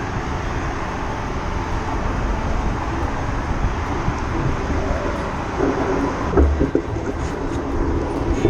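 Steady rushing wind and road noise of a bicycle ride through city streets, with traffic. A few knocks or bumps come about six to seven seconds in.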